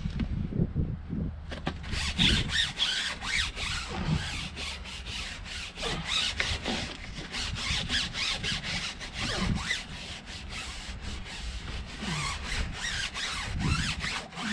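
A wash mitt loaded with Jif cream cleanser scrubbed hard over a truck tyre's rubber: quick back-and-forth rubbing strokes, several a second, starting about a second and a half in, with occasional squeaks as the mitt drags on the rubber.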